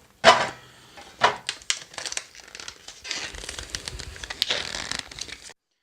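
Foil-laminate freeze-dried ration pouch being pulled and torn open, a sharp snap followed by crinkling and rustling of the packaging. The pouch tears down its side rather than opening cleanly.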